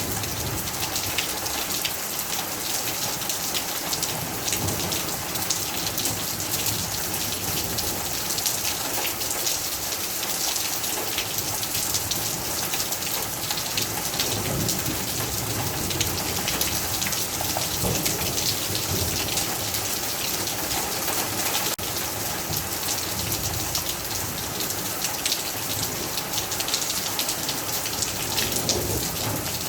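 Steady, heavy rain pouring down, with a dense patter of drops hitting a surface.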